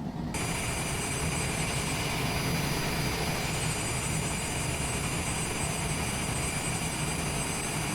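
Cessna Citation's turbofan jet engines running at idle: a steady rushing noise with several high, steady whine tones over a low hum. The rush and whine set in abruptly about a third of a second in.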